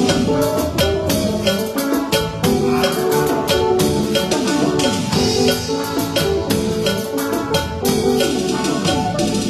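Band music with a drum kit and percussion playing a steady beat under pitched melody and bass notes.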